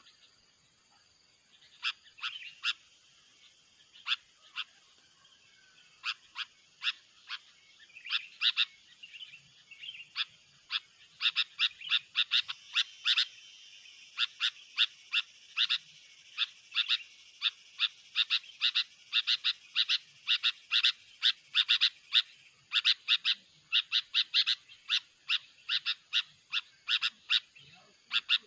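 Sooty-headed bulbul calls: a run of short, sharp chirps, scattered at first and then coming rapidly and almost without a break from about ten seconds in.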